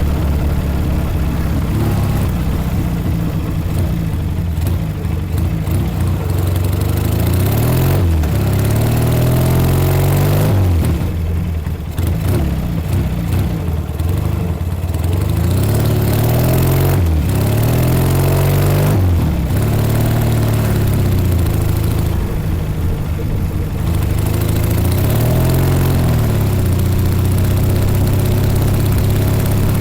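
1956 Norton Dominator 500 air-cooled parallel-twin engine under way. The revs climb and drop sharply again and again as it pulls through the gears, with steadier running in between.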